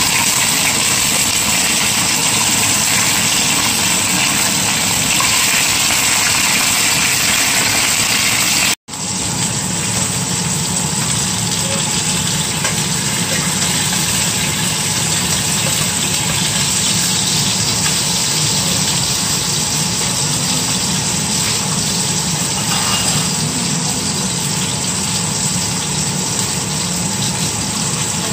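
Chicken frying in hot oil in a wok: a loud, steady sizzle that cuts out for an instant about nine seconds in.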